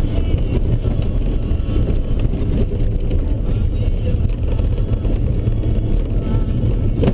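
Ford Ranger 4x4 driving on a rough dirt road: a steady, heavy low rumble of engine, tyres and body.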